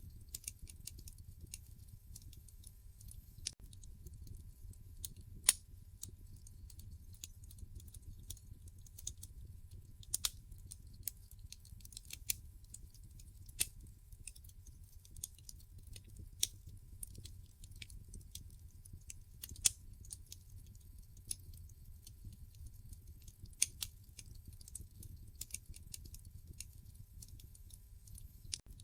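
Wood fire in a fireplace crackling: irregular sharp pops and snaps several times a second, a few much louder than the rest, over a steady low rumble.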